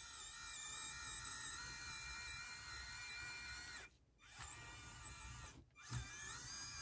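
Small RC crawler truck's electric motor and gears whining under throttle as it climbs a steep incline. It cuts out twice, once about four seconds in and again shortly after, rising in pitch each time it spools back up.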